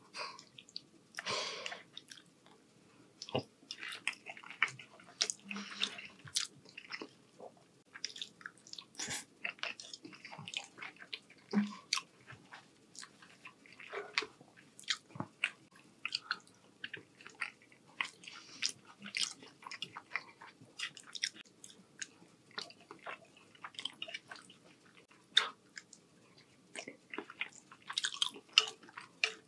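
Close-miked chewing of rotini pasta in meat sauce: many soft, wet mouth clicks and smacks in an irregular stream. A metal fork scoops and scrapes on the plate now and then.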